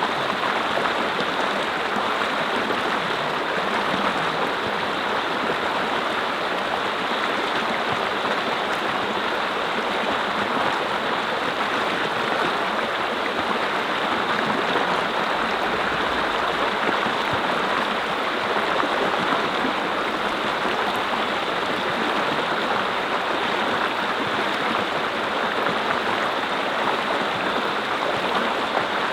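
Mountain stream flowing steadily: water rushing and babbling over rocks.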